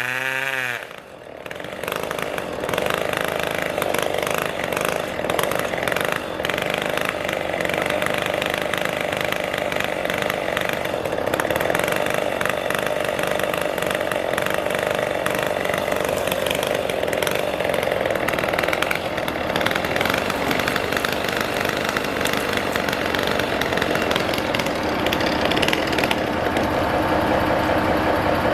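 Chainsaw running steadily at high revs, starting after a short drop about a second in.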